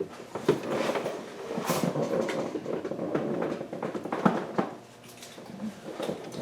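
Metal clicks, clinks and scraping of pliers working on a hose clip in an engine bay, busiest for the first four or five seconds, then a few lighter knocks.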